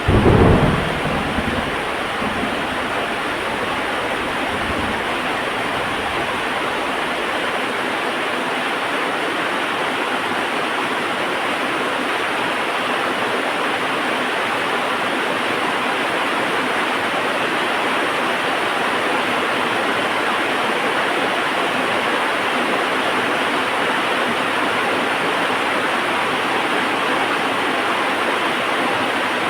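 Heavy rain falling in a steady hiss. A loud thunderclap comes right at the start and rumbles off over the next several seconds.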